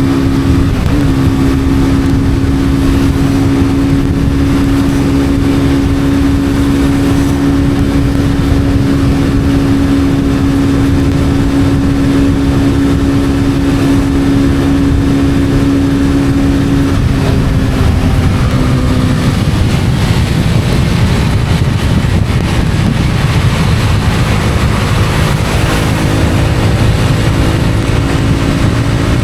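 Honda CB250R's single-cylinder engine running at a steady cruising note with wind and road noise. About seventeen seconds in the engine note drops away as the throttle eases, and it comes back near the end.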